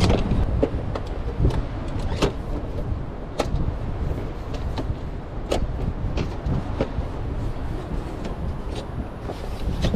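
Strong wind buffeting the microphone as a heavy low rumble, with scattered sharp clicks and taps every second or so.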